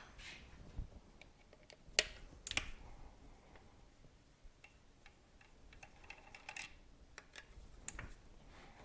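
Irregular light clicks and taps from hand tools and small parts being handled during a motorcycle teardown; the two sharpest come about two seconds in and half a second later, with a brief busier patch of clicking past the middle.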